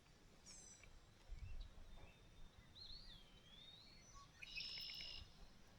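Faint songbird calls over quiet outdoor background: a short high call about half a second in, a looping whistle in the middle, and a buzzy trill near the end, with a few low thumps.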